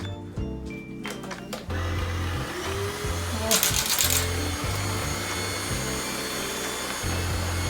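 Deerma wireless vacuum cleaner switched on a little under two seconds in and running with a steady rushing whine, briefly louder for under a second near the middle, over background music with a pulsing beat.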